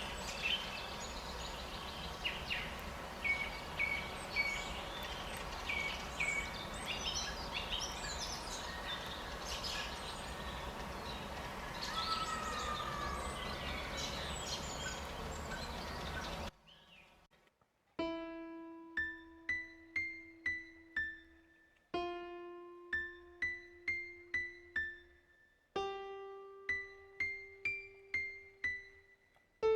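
Outdoor ambience of steady noise with scattered short bird chirps and calls, which cuts off about halfway through. After a brief pause, slow solo piano music begins: single notes struck one at a time, each phrase opening on a low held note followed by higher ones.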